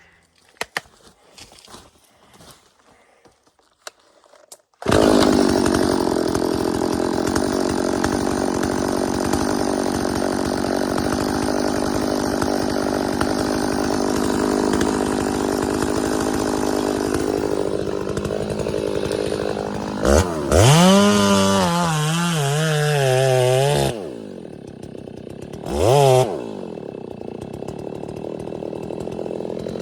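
A chainsaw comes in suddenly about five seconds in and runs at steady full throttle in a cut for about fifteen seconds. It then revs freely with the pitch wavering, drops to idle, is blipped once more, and idles to the end.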